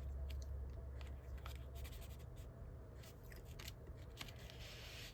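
Faint handling of cardstock and paper: light rustles and small scattered taps as pieces of a card are positioned and pressed into place, over a low steady hum.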